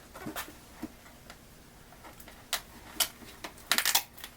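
Scattered sharp clicks and light taps of hard objects being handled, with a quick run of clicks near the end, as a box and computer parts are opened and moved.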